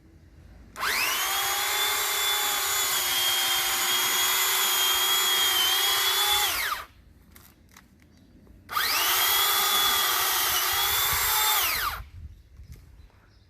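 Pole saw motor running in two bursts, about six seconds and then about three, each with a steady whine that spins up at the start and winds down at the end.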